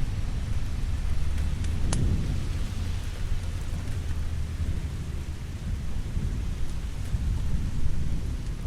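Steady rain with a deep, continuous rumble of thunder underneath, and one sharp crack about two seconds in.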